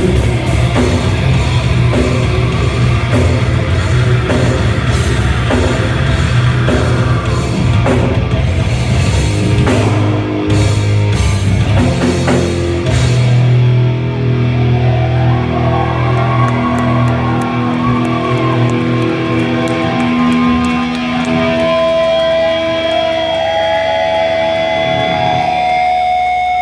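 Loud heavy rock music with electric guitar and drums. About halfway through, the drumming drops away, leaving long held guitar notes that ring on to the end.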